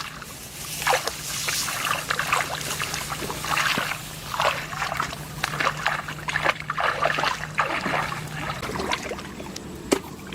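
Shallow flood water in a rice field sloshing and splashing in irregular bursts as it is waded through and stirred by hand. A steady low hum runs underneath and stops near the end.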